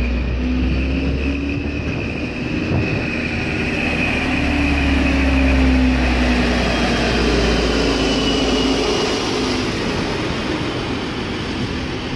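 A Sylt Shuttle plus passenger train running past close by. Its diesel engine hums deeply, and the coaches' wheels roll over the rails. The deep engine hum falls away about nine seconds in, leaving the rolling noise of the coaches.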